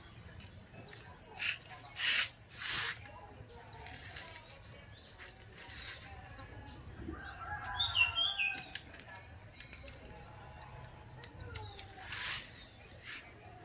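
Zebra dove chick chirping, with a few short bursts of wing flapping and many small clicks.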